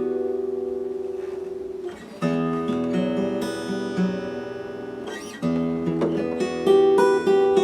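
Acoustic guitar playing slow chords. A ringing chord fades over the first two seconds, then new chords are struck about two, five and a half and nearly seven seconds in, each left to ring.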